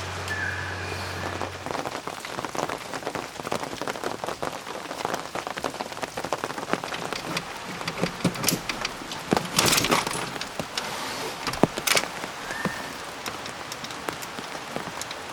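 Rain falling on a surface, a dense irregular spatter of drops with a few louder hits. A low hum stops about two seconds in.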